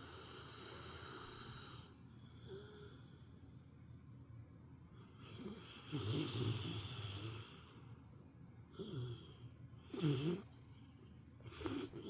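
A sleeping Rottweiler snoring like an old man: a long breath, a louder drawn-out snore about halfway through, then three short snores in the last few seconds.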